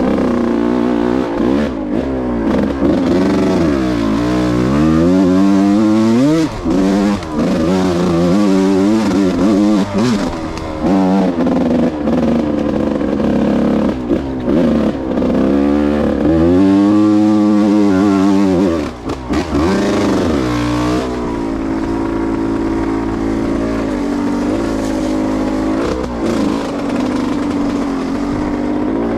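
Yamaha YZ125's single-cylinder two-stroke engine, ridden off-road, revving up and down repeatedly with the throttle, then running at a steadier, lower pitch over the last third.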